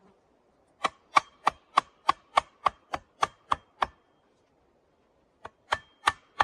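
Rapid, evenly spaced sharp strikes, about three a second, with a faint metallic ring. A run of eleven is followed by a pause of over a second, then another run begins.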